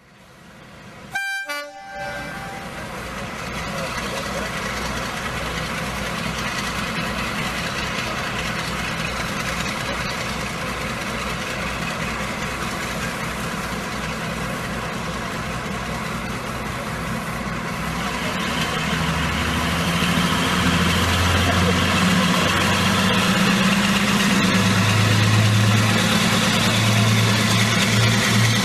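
A train sounds a short, high toot, then runs with a steady mechanical rumble. A low engine hum rises and grows louder in the last third.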